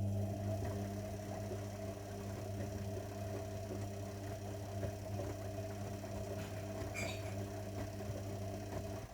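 Zanussi washing machine running with a steady, low electric hum during a wash programme, which cuts off suddenly near the end.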